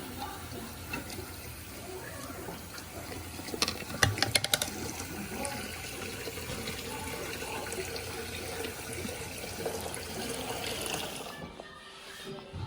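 Running water, like a tap into a sink, with a quick cluster of clatters about four seconds in. The water stops shortly before the end.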